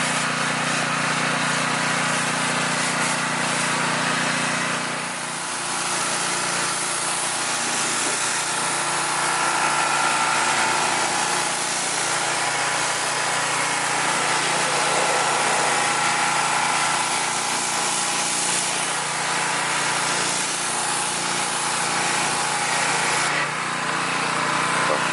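Pressure washer running steadily, its motor humming under the hiss of the water jet, with a short dip about five seconds in.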